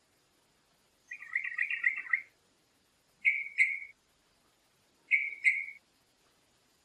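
A songbird calling: a rapid chattering phrase of about a second, then two pairs of short, sharp notes a couple of seconds apart.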